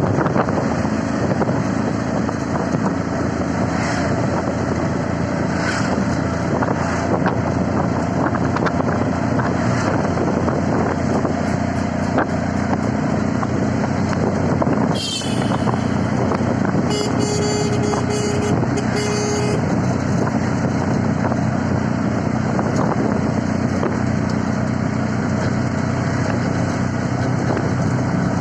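Small three-wheeled CNG auto-rickshaw engine running steadily under road noise during a ride. About 17 seconds in, a vehicle horn honks in a quick series of short beeps.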